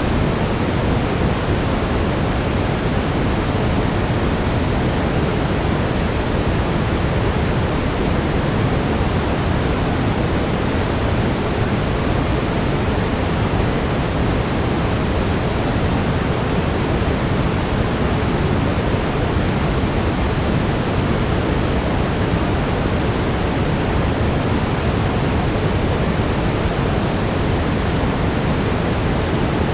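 Steady synthetic brown noise, a constant deep hiss with most of its weight in the low end, with a faint steady tone near 432 Hz running underneath.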